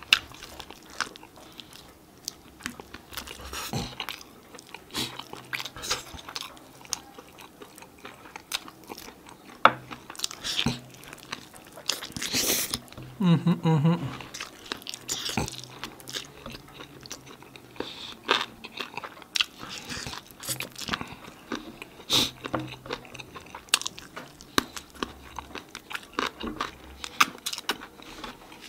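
Close-up mouth sounds of eating a sauced chicken wing: biting and chewing meat off the bone, with many short wet clicks and smacks. A brief hum-like vocal sound from the eater comes about halfway through.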